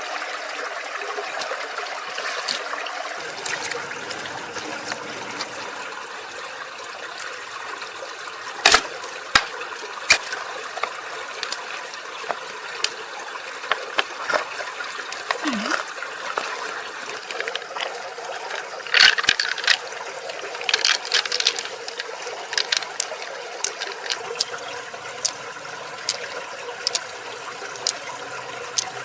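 Water trickling and splashing, with scattered sharp clicks and knocks: a loud one about nine seconds in, and a cluster around twenty seconds in.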